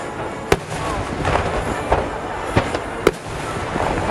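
Fireworks bursting, with sharp bangs about half a second in and again about three seconds in, and lighter pops between.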